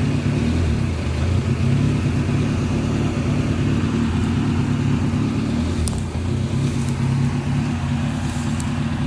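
Off-road 4x4's engine running steadily, a low drone that dips briefly about six seconds in.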